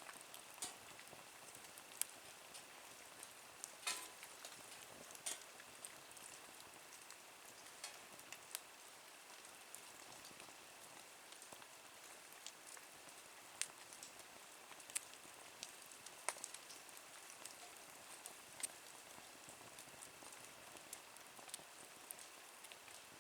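Wood fire burning in a small Nature Stove, crackling with irregular sharp pops every second or so over a low steady hiss.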